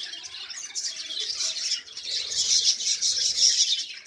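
Pet lovebirds chattering: a dense stream of rapid, high chirps that grows louder about halfway through.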